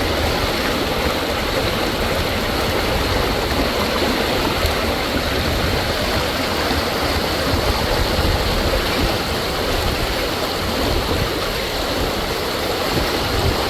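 Loud, steady rush of storm water from a torrential downpour, an even roar of flowing rainwater without a break.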